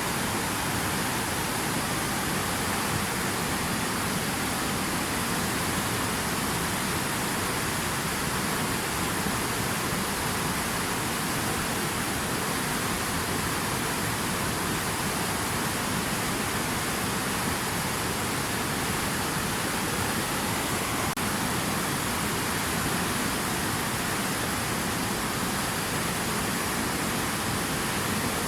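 Steady, unbroken noise of rushing water, an even hiss with no changes.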